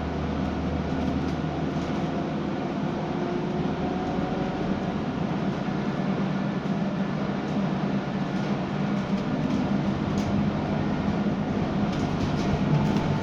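Scania K320UB bus's diesel engine running steadily as the bus drives, a continuous drone with a heavier low rumble in the first couple of seconds and a few light clicks near the end.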